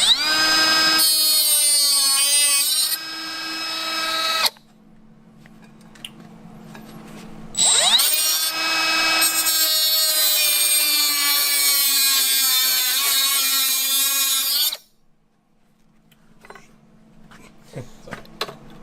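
A high-speed handheld power tool cuts into the sheet-metal firewall of a Nissan 240SX in two long runs. Each run begins with a rising whine as the tool spins up, and the pitch wavers and sags under load while it cuts.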